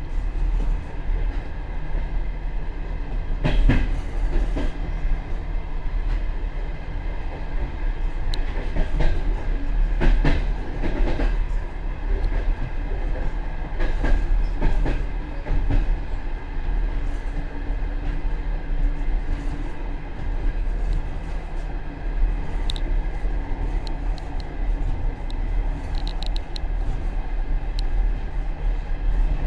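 Passenger express train running, heard from the rear vestibule of its last coach: a steady rumble of wheels on rail, with occasional sharp clacks as the wheels pass over rail joints.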